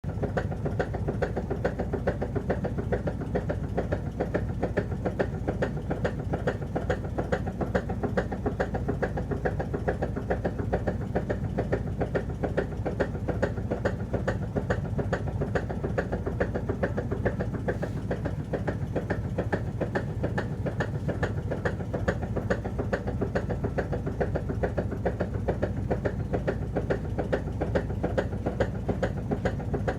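LG WF-T7117TC 7 kg top-load washing machine on its spin, running with a rapid, steady knocking rattle. This loud vibrating noise during spinning comes from a worn-down motor drive belt.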